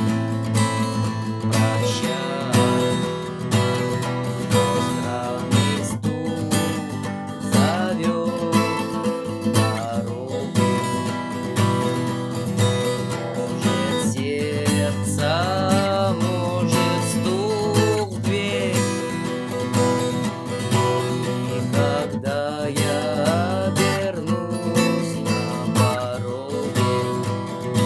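Acoustic guitar strummed in a steady rhythm, chords played through a song, with a gliding melody line above the strumming.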